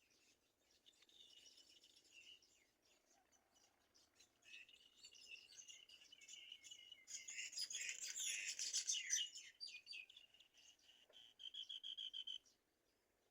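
Black-winged kite chicks giving high, thin calls at the nest. The calls come in strings, loudest about halfway through, then a fast run of pulsed notes that stops suddenly near the end.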